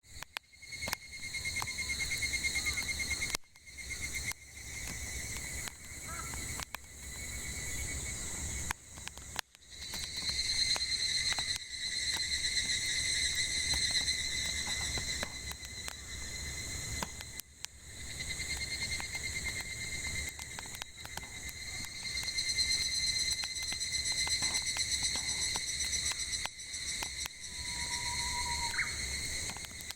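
Cicadas shrilling in a continuous high, buzzing chorus that pulses in strength and drops out briefly a few times. Scattered sharp crackles and pops come from burning firewood, and a short bird call comes near the end.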